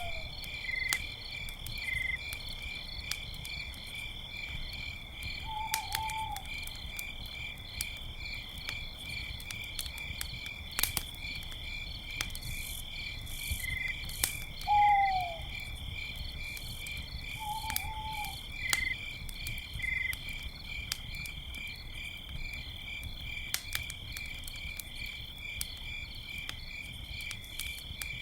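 Crickets chirping steadily in a fast, even pulse, with sharp crackles and pops from a campfire. Four short, falling calls sound at intervals over them; the one about halfway through is the loudest sound.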